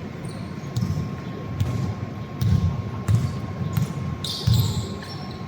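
A basketball being dribbled on an indoor court: several dull bounces at uneven intervals, with a few short high squeaks about four seconds in.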